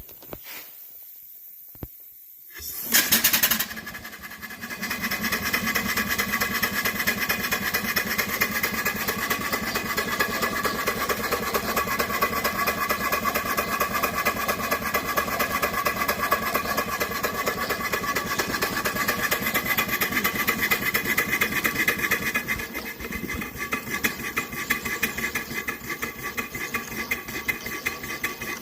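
Steam engine starting up: a short loud burst about three seconds in, then running with a fast, even beat that settles a little quieter near the end.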